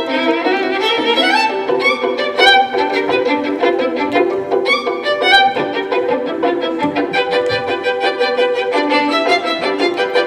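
Violin music: a busy passage of many quick, short notes changing several times a second.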